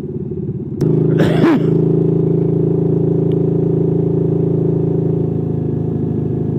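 Motorcycle engine running under the rider. It gets suddenly louder about a second in, with a brief rushing burst, then runs on at a steady drone.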